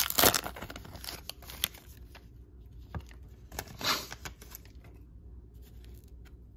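A baseball card pack wrapper being torn open and crinkled. The crackling is densest in the first two seconds, followed by a few separate rustles.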